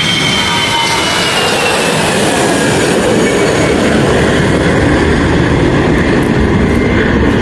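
Jet aircraft passing close, its engine noise loud and steady, with high whining tones that fall slowly in pitch over the first few seconds as it goes by.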